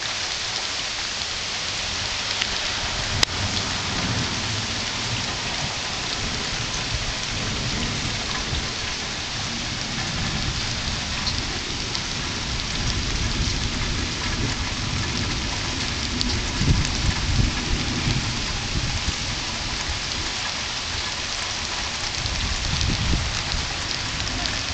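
Steady rain falling, a constant hiss, with low rumbles swelling now and then, strongest about two-thirds of the way in, in the stormy weather ahead of a hurricane.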